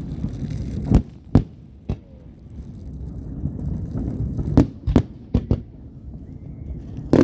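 Aerial fireworks going off: single sharp bangs, a few at a time, over a low rumble, then a rapid cluster of pops and bangs right at the end.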